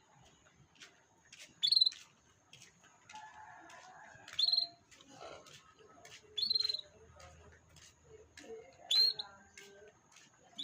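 Young canary calling: four loud short chirps, each sweeping up and holding briefly, spaced about two to two and a half seconds apart, over a faint steady high whine and light clicks.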